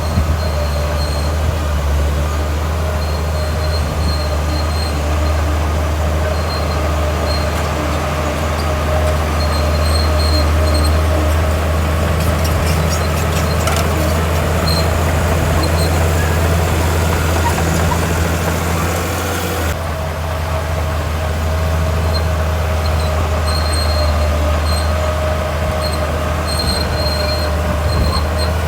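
Bulldozer's diesel engine running steadily under load, with short high squeaks recurring from its steel tracks. A stretch of rattling clatter comes about halfway through.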